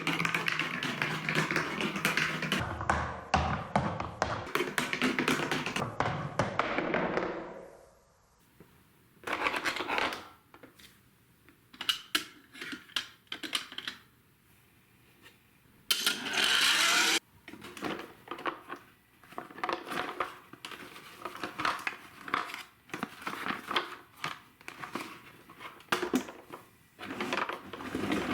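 Marbles rolling and clattering down a plastic TrixTrack marble run. A dense rolling rattle fades out after about seven seconds, then comes a run of scattered clicks and clacks of marbles striking the track, with a short louder rush of rolling about halfway through.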